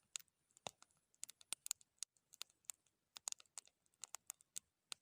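Campfire crackling: faint, irregular sharp pops and snaps, a few each second.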